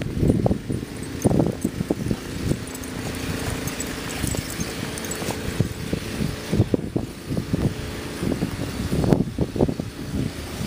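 An engine running steadily, with irregular low thumps and rumbles over it.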